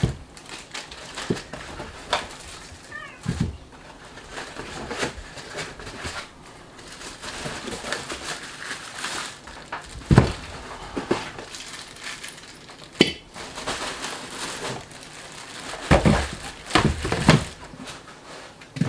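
Vacuum parts and packaging being pulled out of a cardboard box: rustling with scattered knocks, the loudest about ten seconds in and again around sixteen seconds.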